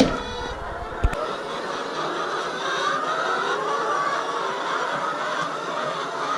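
A flock of laying hens clucking and chattering together, many overlapping calls, with two sharp knocks, one at the start and one about a second in.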